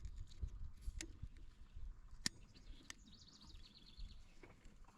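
Faint outdoor quiet with birdsong: a bird gives a rapid high trill about three seconds in. A few sharp clicks come from hands working on the planter's fertilizer-pump drive chain.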